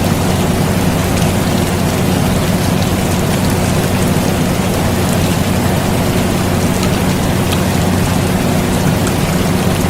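Air conditioner running with a steady low hum, mixed with steady rain: an even hiss with scattered raindrop ticks.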